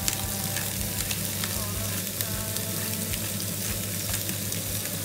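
Pork intestines frying hard in a pan with onion and garlic on high heat, a steady sizzle with frequent small crackles and pops as the fat renders out.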